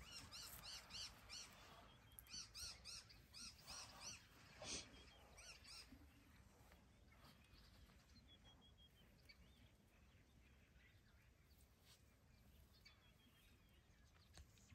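Faint bird calls: a run of quick, repeated chirps through the first six seconds, then near silence with only a few soft notes.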